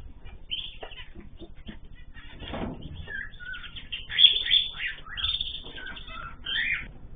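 Small cage birds in a mixed aviary chirping and calling in quick, overlapping short notes, busiest in the second half.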